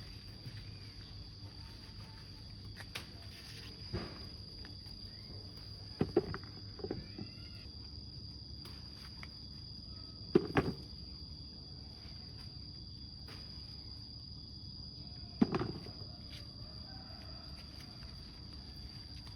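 Insects, crickets or similar, keeping up a steady high-pitched drone, broken by a few sharp snaps or knocks, the loudest about ten and fifteen seconds in.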